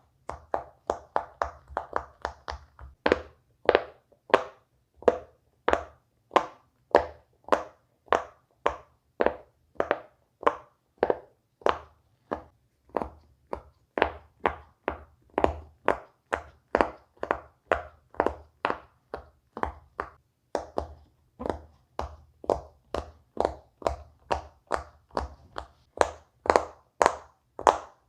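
Silicone pop-it fidget toy bubbles being pushed in one after another, each making a short pop at about two a second, with a quicker run of pops about a second in.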